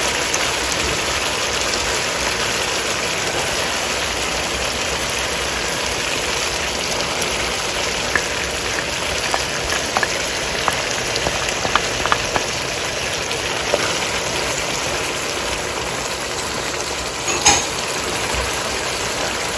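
Chicken jalfrezi masala sizzling and bubbling steadily in a wok as yogurt is stirred in, with a few faint clicks and one short scrape of the wooden spatula near the end.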